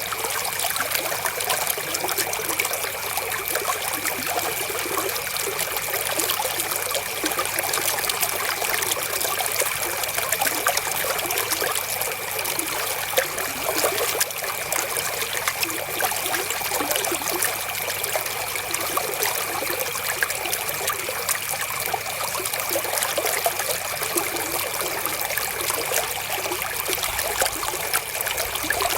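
Flowing river water, trickling and splashing steadily with many small splashes, over a faint steady high tone.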